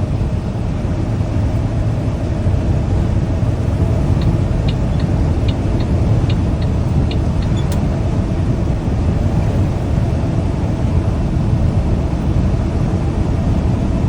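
Steady low rumble of a semi truck's engine and tyres heard inside the cab while driving. About four seconds in comes a run of about ten light ticks, ending in a single sharp click.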